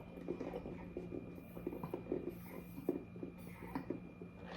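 Faint chewing and mouth noises: soft irregular clicks and smacks with a few short breaths through the nose.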